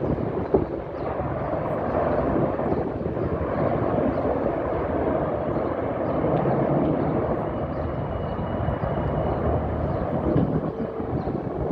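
Formation of Apache and Black Hawk military helicopters flying over, a steady rush of rotor and engine noise that swells a little about halfway through.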